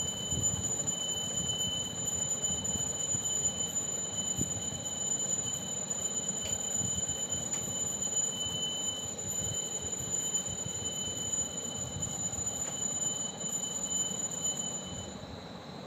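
Strips of eggplant sizzling in hot oil in a steel wok while a metal spatula stirs and scrapes them, with a few faint clicks. A steady high-pitched whine of several tones runs throughout, and part of it stops near the end.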